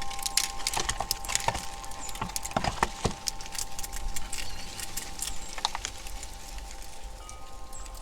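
Squirrels scrabbling and gnawing at a platform feeder: a quick, irregular run of sharp clicks and cracks, thinning out in the second half.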